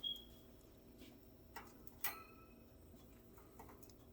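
Budgie giving one short high chirp, then a few faint clicks and taps from budgies moving about the cage, the loudest about two seconds in.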